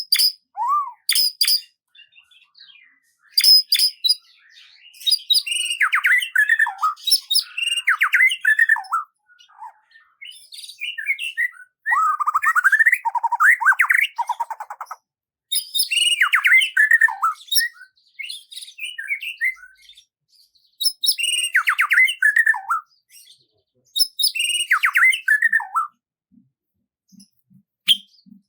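A songbird singing in repeated phrases of quick chirps and downward-sliding whistled notes, each phrase a few seconds long with short pauses between.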